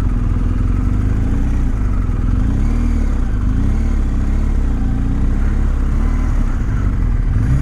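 Motorcycle engine running at low speed, its pitch rising and falling gently over a steady low rumble.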